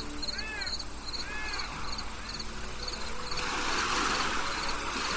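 Recorded nighttime-style insect chorus of crickets: a steady high trill under short chirps repeating about two to three times a second. Three short arched calls from another animal come in the first second and a half.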